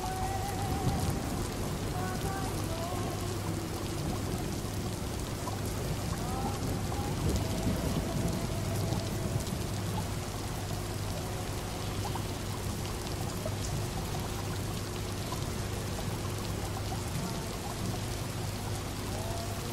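Steady rain against a window, mixed with the constant low hum and gurgle of a fish tank.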